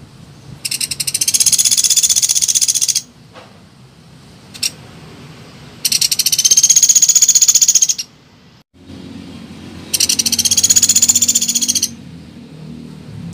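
Woodpecker (pelatuk beras) rattling call: a fast, high-pitched trill of rapid notes, each about two seconds long, given three times with short gaps between them, plus a brief single burst in the middle.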